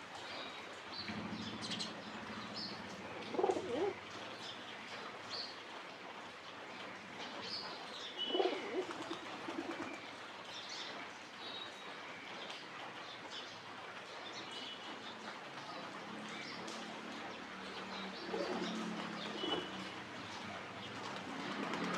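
Pigeons cooing again and again, low and throaty, with small birds chirping high and briefly in between.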